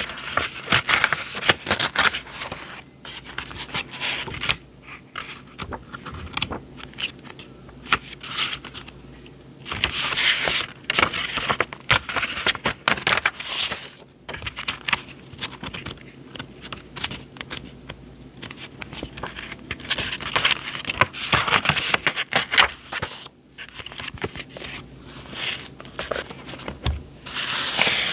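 Sheets of paper and journaling supplies being handled: irregular rustling, sliding and crinkling with small taps, louder in a few stretches.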